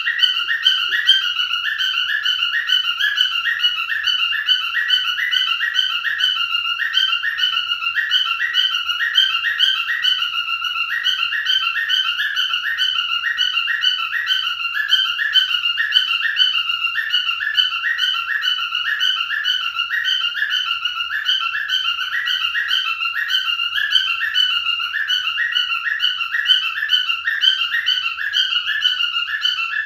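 Pied cockatiel singing: a rapid, continuous warble of whistled notes that repeats over and over without a break.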